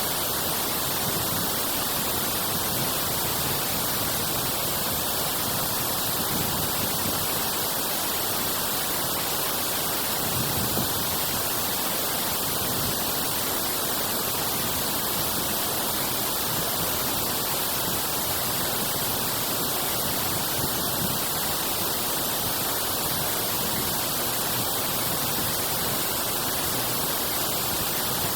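Water rushing steadily through a dam drainage outlet, a constant hiss with no let-up.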